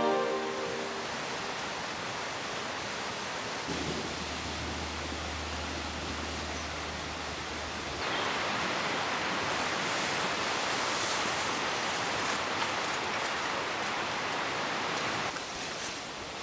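Steady rushing outdoor ambience, with a low hum between about four and eight seconds in and a few light clicks near the end.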